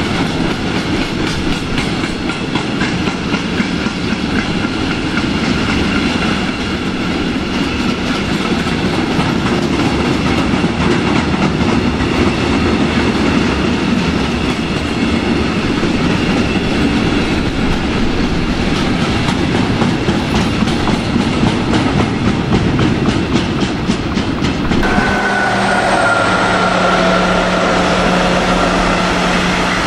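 An empty freight train of stanchion flat wagons rolling past at speed, wheels clattering over the rail joints in a rapid stream of clicks over a steady rumble. About 25 s in the sound cuts abruptly to a passing regional train with a steady engine hum and a high whine.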